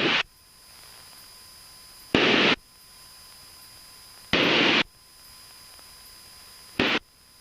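Aircraft radio static: three short bursts of hissing noise about two seconds apart and a shorter one near the end, over a faint steady hiss, as transmissions key up with no speech on them.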